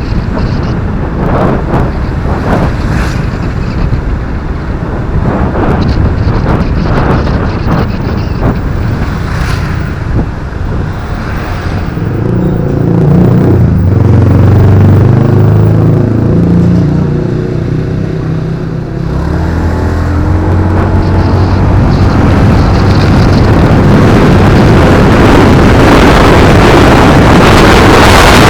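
Motorcycle ride heard through an action camera's built-in microphone: wind buffeting the mic, with the motorbike engine's note coming through clearly in the middle stretch. The wind noise grows louder near the end.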